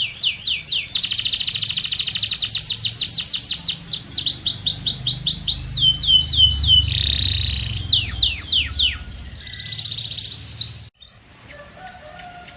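Domestic canary singing a rapid, varied song: series of quick downward-sweeping whistled notes, a fast rattling trill, runs of repeated notes and a buzzy phrase. The song cuts off abruptly near the end.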